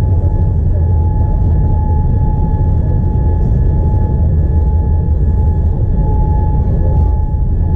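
Boeing 787-9 cabin noise heard from a passenger seat: a loud, steady low rumble of engines and airflow with a constant high whine over it.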